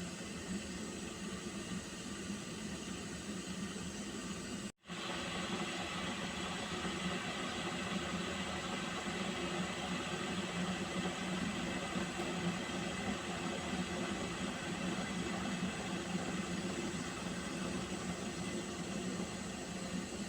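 Water being boiled, a steady hiss of heating water with a low rumble under it. The sound cuts out for an instant about five seconds in and comes back slightly louder.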